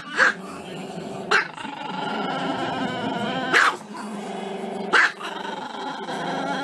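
A black-and-tan Chihuahua howling with its muzzle raised, a drawn-out wavering howl broken by sharp barks: two in quick succession at the start, then three more spaced over the next five seconds.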